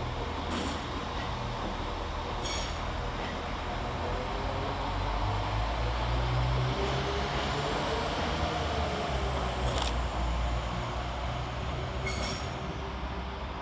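Class 196 diesel multiple unit pulling out and running past, a steady low engine and wheel rumble that grows to its loudest about halfway and then eases. Around the middle it carries a whine that rises then falls, with a few sharp clicks along the way.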